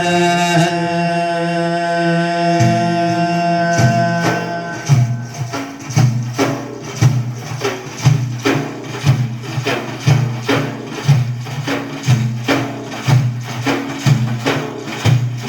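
A male singer holds the last note of a sung line for about four seconds. Then hand drums take over with a steady percussion beat.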